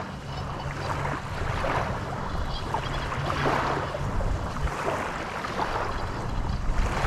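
Wind and lapping waves coming and going in swells, over a low steady hum.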